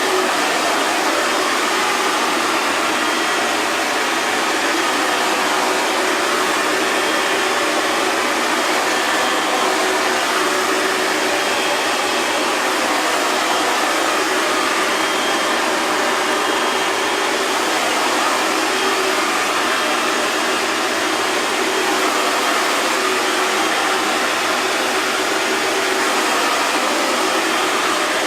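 Handheld hair dryer running steadily: a continuous airy rush of the fan with a faint motor hum underneath, unchanging in pitch and level.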